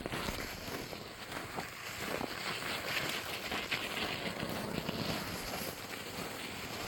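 Wind blowing outdoors, a steady rushing noise with a few faint knocks.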